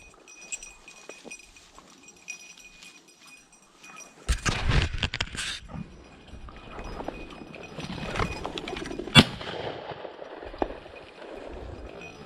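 A single sharp shotgun shot about nine seconds in, fired at a flushed pheasant. A loud burst of rustling commotion in the brush comes about four seconds earlier.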